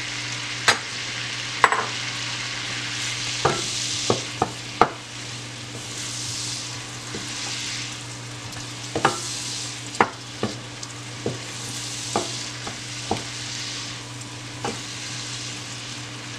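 Button mushrooms sizzling in melted butter and garlic oil in a pan, stirred with a wooden spoon that knocks against the pan with sharp clicks again and again.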